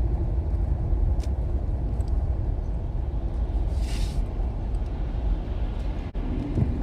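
Steady low rumble of a car's engine and tyres heard from inside the cabin while driving on a snow-covered road, with a brief hiss about four seconds in.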